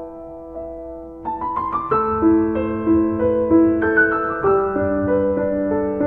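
Background music: slow, gentle piano, with a quick rising run of notes about a second and a half in, then fuller chords.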